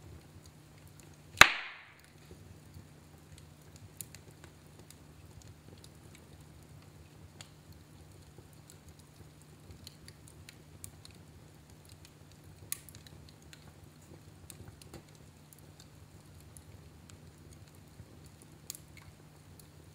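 Wood fire burning in a fireplace: sparse small crackles every few seconds over a low steady rumble, with one loud sharp pop about a second and a half in.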